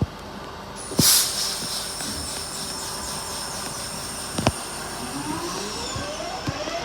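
West Midlands Railway class 323 electric multiple unit: a sharp hiss about a second in, then a steady high whine, and from about five seconds in its traction motors give a rising whine of several tones climbing together as the train accelerates away.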